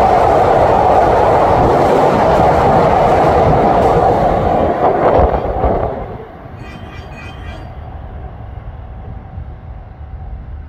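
Hankyu 1000 series electric train running past close by, with a loud, steady rush of wheels on rail. It drops away sharply about six seconds in as the last car clears, leaving a low background hum.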